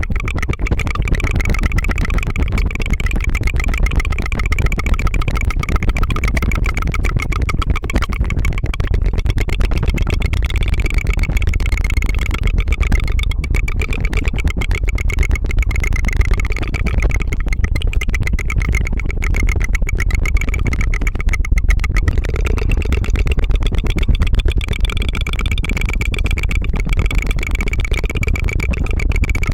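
Continuous rapid tongue trill (tongue fluttering), a fast pulsing 'tu-tu-tu' mouth sound held steadily without a break, made close to the microphone.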